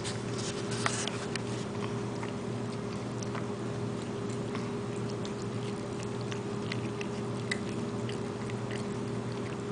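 Ragdoll cats eating canned wet cat food, with small irregular clicks of chewing and licking. A steady low hum runs underneath.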